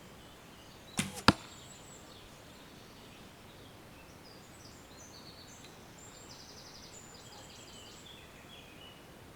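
An arrow shot from a bow: a sharp snap of the release, then about a third of a second later a louder smack as the arrow strikes the target. Birds sing faintly afterwards.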